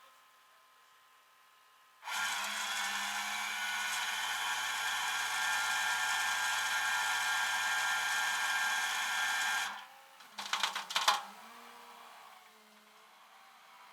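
A small electric motor runs steadily for about seven and a half seconds, then stops; a brief clatter follows.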